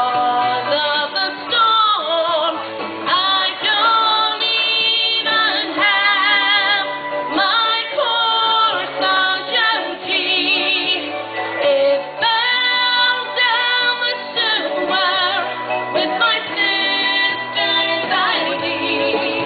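Pop song with a woman singing long, wavering notes over a bass line and backing band.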